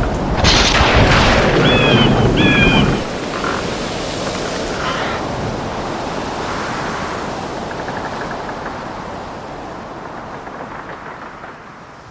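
Thunder rumbling over steady rain for about the first three seconds, with two short high chirps about two seconds in. The rain then carries on alone and slowly fades out.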